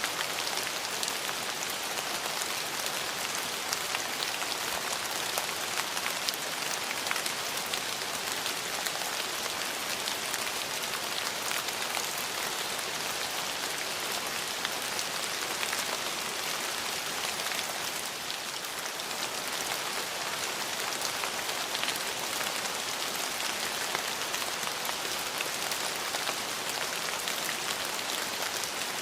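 Steady rain falling, an even hiss with many small drop ticks scattered through it, easing slightly for a moment about two-thirds of the way in.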